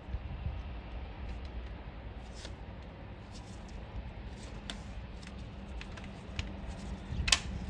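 Scattered light clicks and taps of hands handling small metal engine parts during a lifter replacement, with one sharp click near the end, over a steady low hum.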